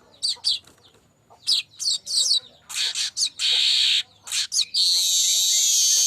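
Manyar kembang weaver singing: a few short high chirps, then two long, wheezy, buzzing phrases, one about three seconds in and another starting near the end.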